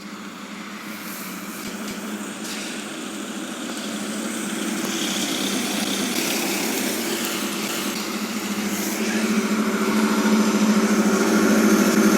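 Fire truck engines running as the trucks approach, growing steadily louder, with no siren.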